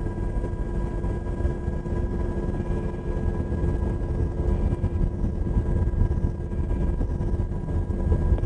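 UH-60 Black Hawk helicopter in flight: a steady low rumble of rotor and engines, with a few steady tones humming over it.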